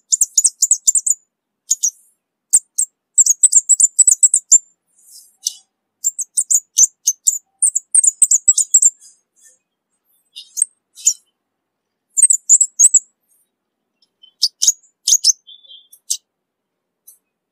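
Orange-bellied flowerpecker singing: very high, thin notes run together into rapid twittering bursts of about a second each, with short pauses between, loud and clear.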